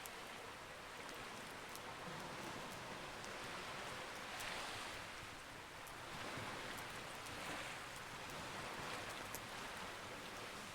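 Sea waves washing in a steady hiss that swells and eases every second or two, with scattered faint, sharp crackles of a campfire.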